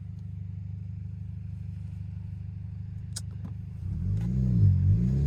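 Turbocharged Kia's engine running steadily, then from about four seconds in getting louder, its pitch rising and falling as the car is driven on the throttle. A short click about three seconds in.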